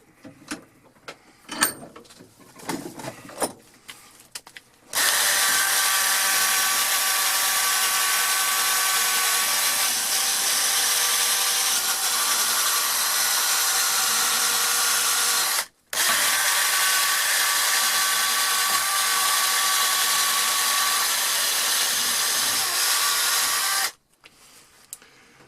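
A few handling clicks and knocks, then a small high-speed power tool with a small wheel runs steadily against a steel auger bit for nearly 20 seconds, breaking off for an instant midway. It stops sharply near the end. The tool is making little headway on the bit: it 'doesn't seem to do anything'.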